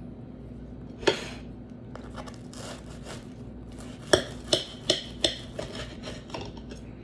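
Cutlery clinking and scraping against a plate while eating: one sharp clink about a second in, then a quick run of five or so clinks around four to five seconds in, over a steady low hum.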